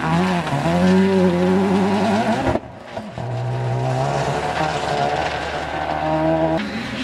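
Rally car engine at speed, revs climbing over the first couple of seconds. The sound then cuts to another pass with a steadier engine note, and cuts again near the end.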